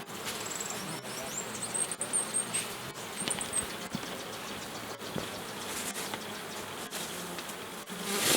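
A honeybee colony buzzing steadily in a low hum. A brief run of high, thin chirps sounds over it in the first few seconds.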